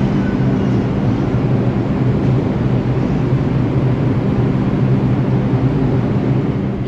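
New York City subway train running on the track, a steady loud rumble with a low hum.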